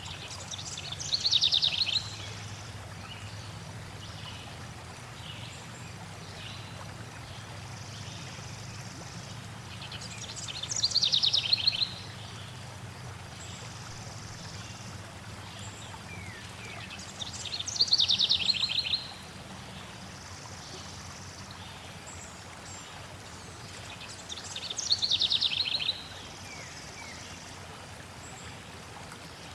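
A songbird repeats the same short song four times: each a quick run of notes falling in pitch, about a second and a half long. Behind it runs the steady rush of flowing water.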